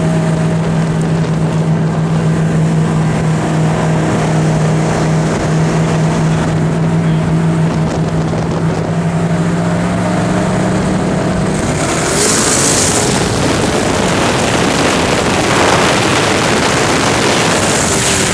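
A twin-turbo car engine at speed holds a steady note for about eleven seconds. About twelve seconds in, the note is swallowed by louder, even rushing wind and engine noise, with a brief high hiss then and again near the end.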